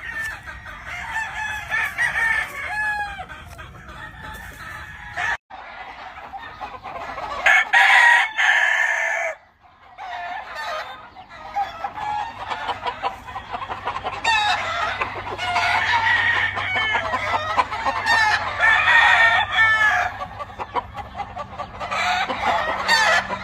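A yard of gamefowl chickens, several roosters crowing over and over among clucking hens, many calls overlapping. The sound breaks off abruptly twice, at about 5 and 9 seconds in.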